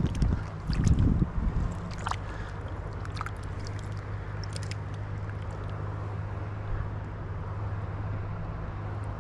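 Steady low rush of river water, with a few heavy thumps of wind or handling on the microphone in the first second or two and scattered light clicks and knocks of handling over the first few seconds.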